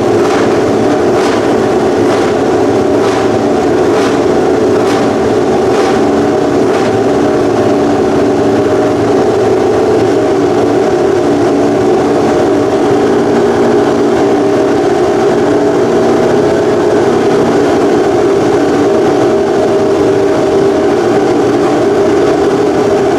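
Honda RC213V MotoGP bike's V4 engine idling steadily and loud. Sharp cracks come about once a second during the first several seconds, then stop.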